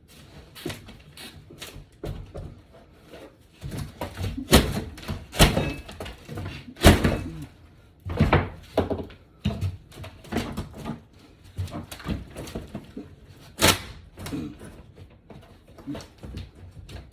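Irregular knocks and thuds of old flooring being pried and torn up, with several louder sharp impacts among many smaller knocks and scrapes.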